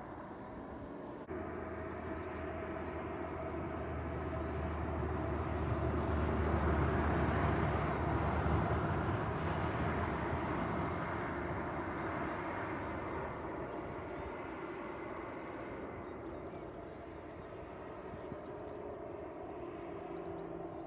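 Airliner passing by the runway: a steady rushing noise with a low hum that swells to a peak about seven to nine seconds in, then slowly fades away.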